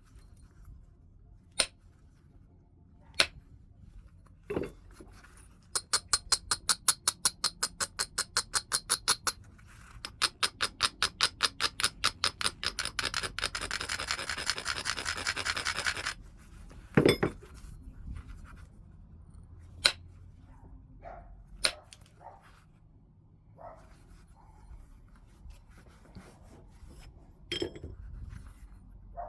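Flintknapping on heat-treated Burlington chert: single sharp stone clicks, then a long run of quick rubbing strokes along the edge of the piece, about eight a second and speeding into a continuous scrape, which is the edge being abraded to prepare platforms. About a second after the scraping stops comes one louder knock, then more light clicks.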